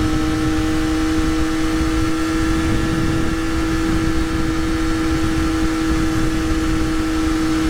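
Triumph Daytona 675 Moto2 edition's three-cylinder engine, with a link pipe in place of the stock muffler, running at a steady cruise. The engine note holds one unchanging pitch over low wind rumble, heard from inside the rider's helmet.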